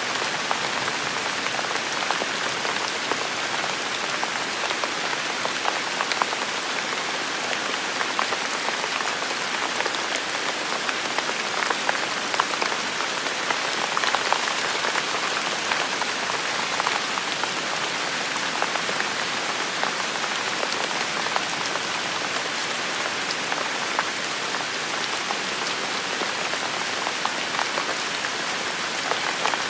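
Heavy rain falling steadily, a dense even hiss with many individual drops pattering and spattering through it.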